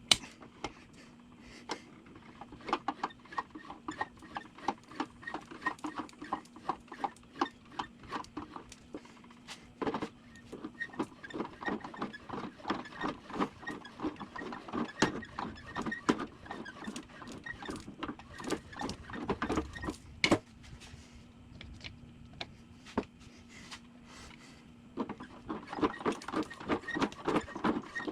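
Hand ratchet wrench clicking in quick runs with short pauses between, as brake parts are bolted back on.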